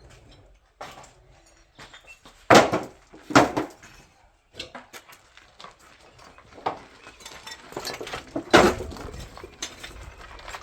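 Hard objects knocking and clattering, with three louder knocks about two and a half, three and a half, and eight and a half seconds in, among smaller clinks.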